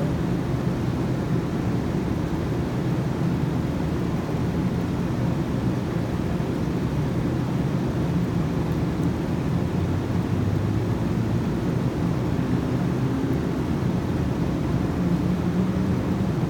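Steady low rumbling noise with a faint hum in it, even in level throughout.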